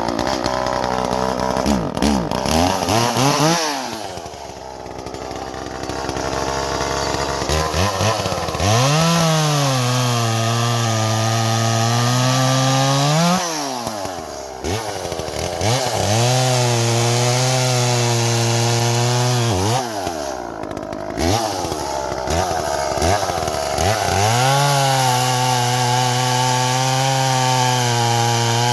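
Chainsaw cutting firewood logs: the engine is revved up and held at high speed for a few seconds at a time while cutting, dropping back to idle between cuts, about four times.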